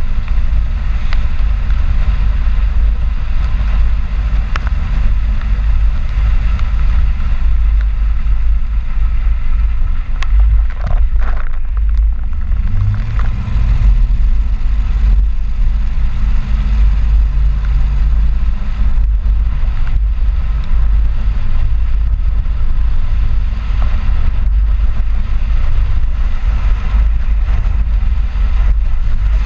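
Ford 4x4 pickup truck driving, with a heavy, steady low rumble of road and wind noise on the microphone. Near the middle an engine note briefly rises above the rumble.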